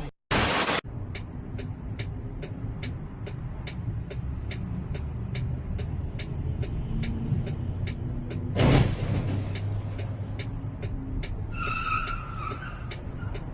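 Car driving with steady engine and road noise and a regular faint ticking about twice a second. A short loud burst of noise comes just after the start, a loud rush of noise about nine seconds in, and a brief high squeal near the end.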